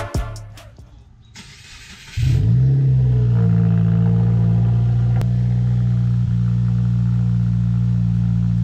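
Subaru WRX's turbocharged FA20 flat-four starting up about two seconds in on freshly installed spark plugs. It flares briefly, then settles into a steady fast idle.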